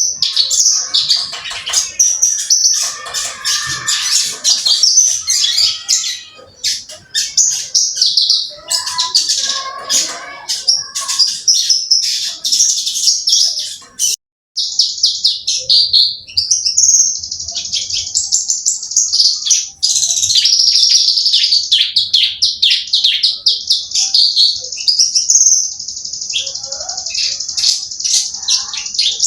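Javan bushlark (branjangan) singing continuously in a long, rapid run of high chirps and trills, with a brief break about halfway through.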